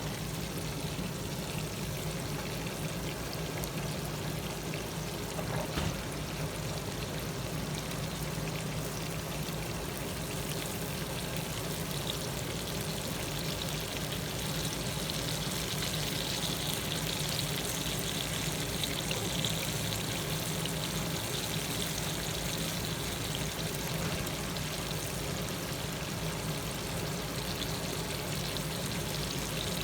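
Whiting fillets frying in hot grease in a pan on a grill: a steady sizzle.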